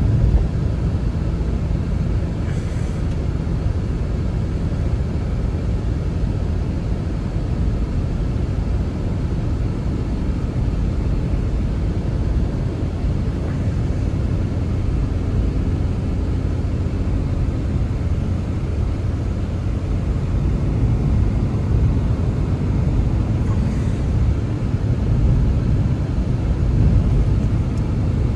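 Strong blizzard wind gusting: a loud, steady low rumble that swells and eases.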